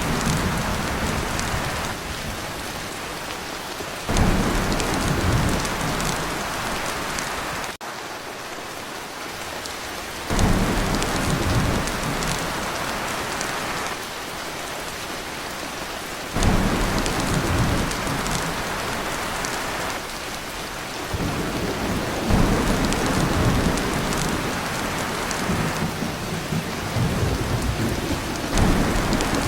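Heavy rain drumming on a tin roof, with low rolls of thunder that swell up suddenly every five or six seconds.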